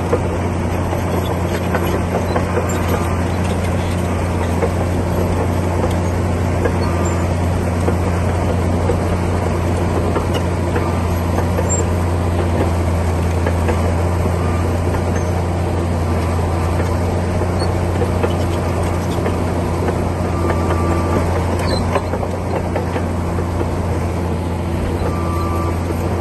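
Komatsu D60P bulldozer's diesel engine running steadily with a constant low drone, the level holding even throughout.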